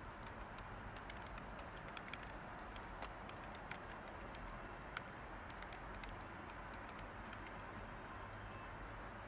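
Light typing on a computer keyboard: scattered, irregular keystrokes, more of them in the first half, over a steady white-noise hiss.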